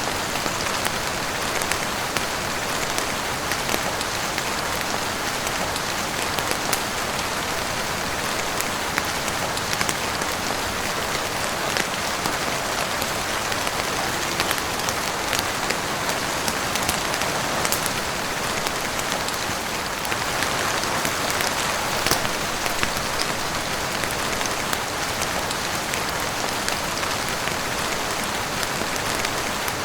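Steady heavy rain falling on a roof and windows, an even wash of noise with many scattered sharp ticks of individual drops.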